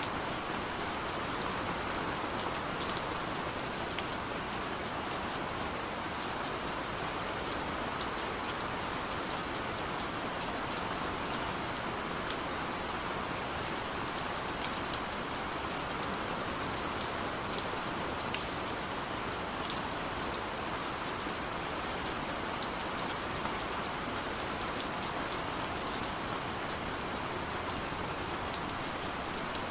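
Steady gentle rain: an even hiss of rainfall with scattered individual drops ticking sharply on a hard surface, a few of them a little louder.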